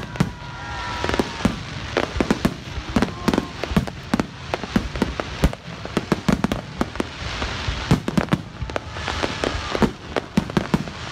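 Fireworks display: a rapid barrage of shell bursts and sharp firecracker-like reports, several a second, with a crackling hiss in between at times.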